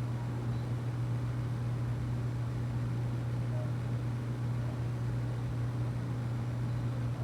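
A steady low hum over a faint even hiss, unchanging throughout.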